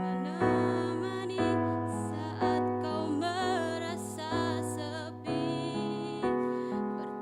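Keyboard accompaniment playing sustained chords, a new chord struck about once a second, with a solo voice singing a wavering melody over it through the middle stretch.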